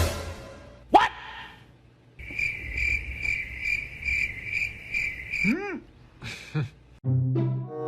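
A steady high chirping, pulsing about two to three times a second for a few seconds, after a quick rising sweep. It ends in a falling swoop, and music with a deep drum starts near the end.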